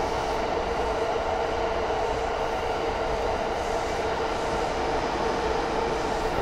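E233-series electric train passing alongside, heard through a carriage window: a steady rumble with a steady hum underneath.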